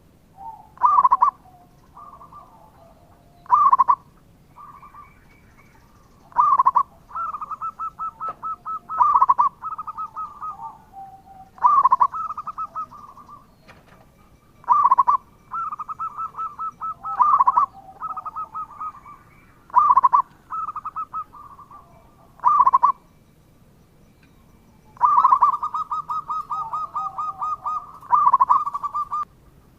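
Zebra dove (perkutut) cooing song: a loud opening note every two to three seconds, each followed by a run of quick stuttering coos, with some lower notes overlapping.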